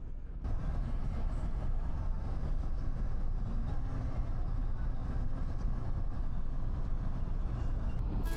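Steady rumble and road noise of a vehicle in motion, cutting in suddenly about half a second in.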